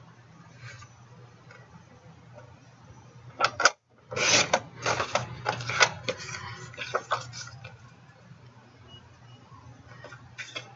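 Cardstock and a cutting tool being handled on a table as a mat is cut to size. A short sharp rattle about three seconds in is followed by a few seconds of scraping and clicking.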